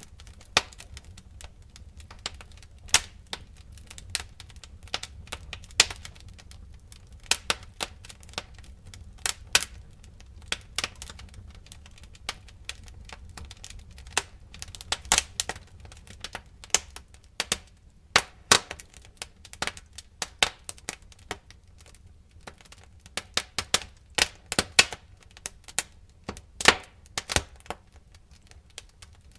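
Fire crackling, with irregular sharp pops and snaps coming in uneven clusters over a low steady rumble.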